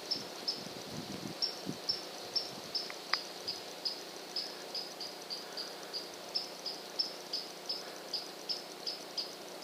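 A cricket chirping steadily, short even chirps at about two to three a second, with a single faint click about three seconds in.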